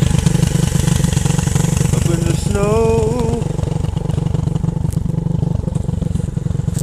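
Pit bike's small single-cylinder engine running continuously, easing slightly in loudness in the second half.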